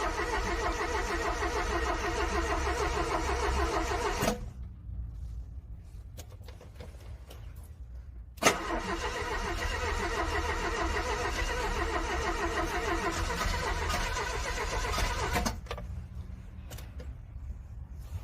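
Car engine cranking on its starter without catching in freezing cold. It cranks for about four seconds and stops, then a sharp click as the starter engages and it cranks again for about seven seconds before cutting off.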